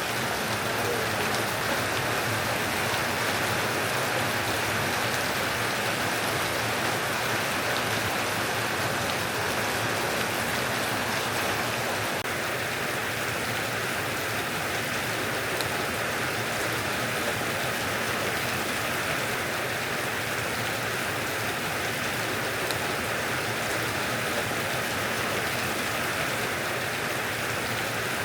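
Steady heavy rain from a summer storm, an even hiss of downpour with no breaks.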